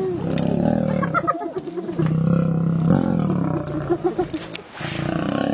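Spotted hyenas and lions squabbling: deep growls with curving whoop-like calls and bouts of rapid, high hyena giggling.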